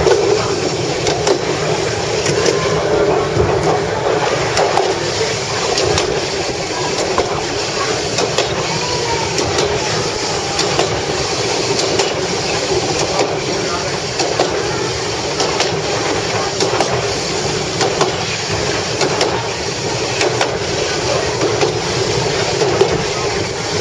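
Myanmar Railways railcar running along the track, heard from on board: a steady rumble of wheels on rails, with frequent sharp clicks over the rail joints.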